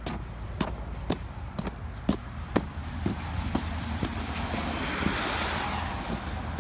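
Footsteps in snow at about two steps a second, with a car passing on the snowy road that swells up about four seconds in and fades near the end.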